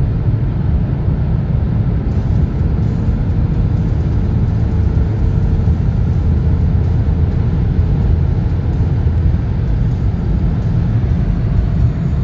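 2016 Audi SQ5 (8R) accelerating hard at high speed: a loud, steady low drone of engine and road noise.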